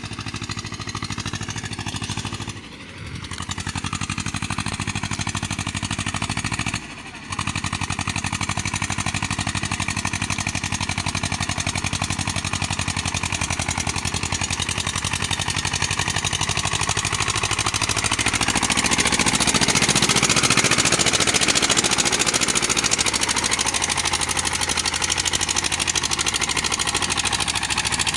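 Tractor engine running steadily with a rapid, even beat. The sound dips briefly twice, about three and seven seconds in, and grows louder and brighter past the middle.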